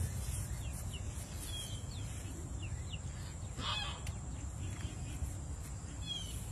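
A single harsh bird call a little past halfway, with faint short chirps of small birds scattered throughout.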